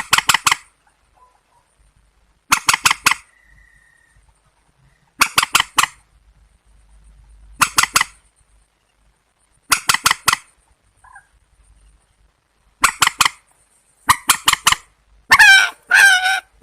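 Calls of rails, the swamphen and white-breasted waterhen that the recording is of: clusters of three to five short, harsh notes repeated every two to three seconds, turning into longer wavering calls near the end.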